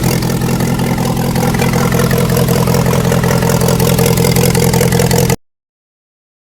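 Hercules IXB5 four-cylinder engine running steadily. The sound cuts off abruptly about five seconds in.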